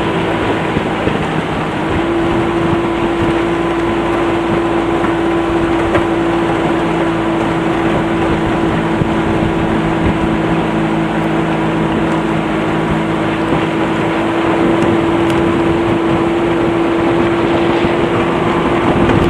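1986 Yamaha 40 HP three-cylinder two-stroke outboard running steadily at low planing speed, about 20 miles an hour. Its pitch settles about two seconds in and then holds even.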